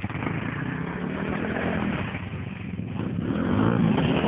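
Pit bike engine revving up and down, getting louder about three and a half seconds in.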